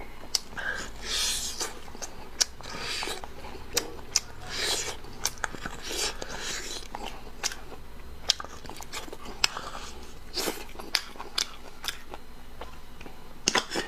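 Close-miked eating sounds: wet chewing with frequent sharp mouth clicks and smacks, and a few longer moist swells in the first half.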